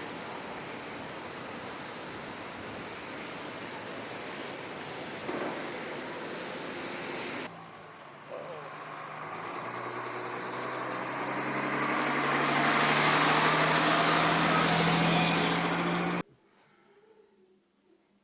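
Outdoor noise like wind or distant traffic, then, after a cut, a vehicle engine with a steady hum that grows louder and stops suddenly near the end.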